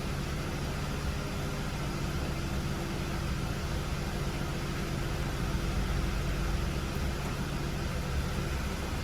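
BMW E90 3 Series (2009 LCI) engine idling steadily.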